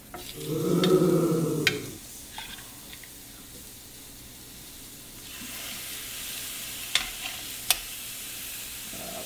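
Seasoned raw chicken breasts laid with metal tongs onto a grill pan on a gas stove, sizzling, the sizzle growing louder about five seconds in, with a few sharp clicks of the tongs on the pan. A short, loud pitched sound comes near the start.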